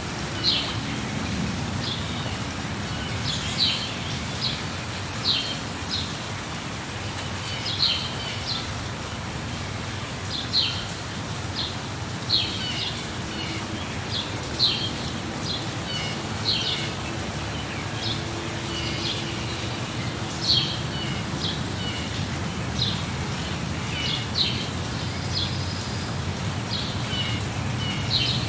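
Birds chirping in short repeated calls, one every second or two, over the steady hiss of falling rain.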